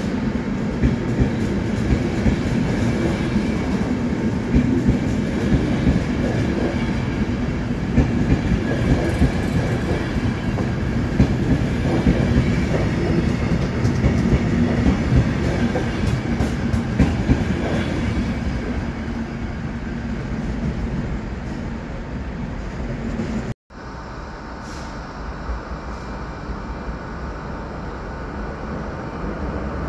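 A locomotive-hauled train rolls through, its wheels clattering over rail joints and points, with a steady hum under the noise. About three-quarters of the way through, the sound drops out for an instant and comes back quieter.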